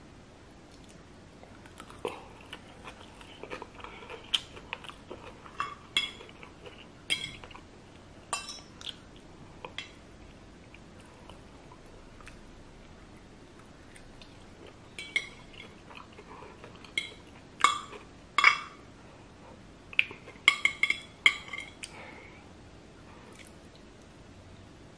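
A person eating noodles from a metal fork: sharp clinks of the fork against the dish and wet chewing mouth sounds. These come in two bouts, with a quieter stretch of chewing between them.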